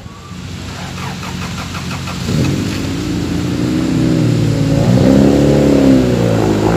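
A car's engine revving as the car pulls away, its pitch rising and dropping a few times and getting louder from about two seconds in.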